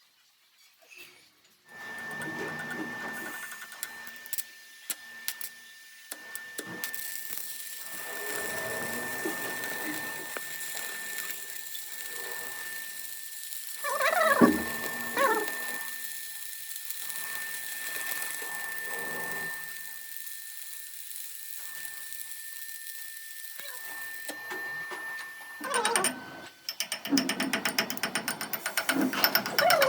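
A machine running with a steady high whine. Near the end a fast, even rattle of knocks starts.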